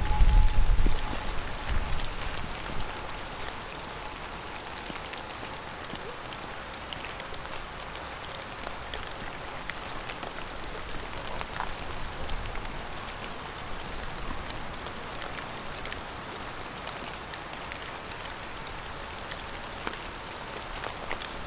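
Steady rain falling, with many individual drops ticking close by. A low rumble is heard during the first couple of seconds, then fades.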